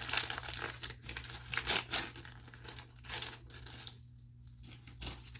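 LOL Surprise doll packaging being torn open and crinkled by hand, in a run of short rustles that thin out toward the end.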